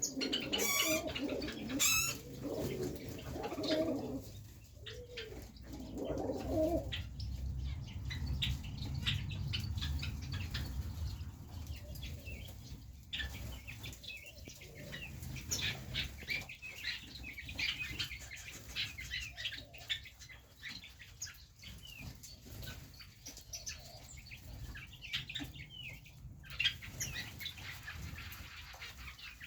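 Pet pigeons cooing for the first several seconds, with wings flapping. Many short high chirps from smaller birds and small clicks run throughout.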